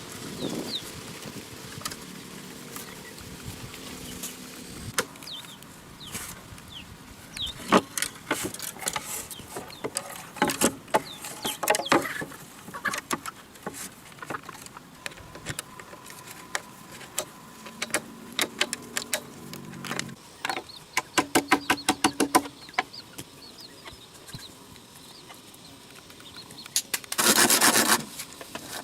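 Scattered knocks and clatter, with chickens clucking now and then. Near the end comes a harsh burst of sawing on wood.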